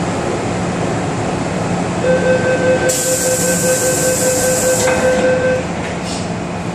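Hong Kong MTR Island Line train cabin hum, with a steady-pitched warning beeping for about three and a half seconds starting two seconds in, typical of the door-closing signal. A high hiss comes partway through it.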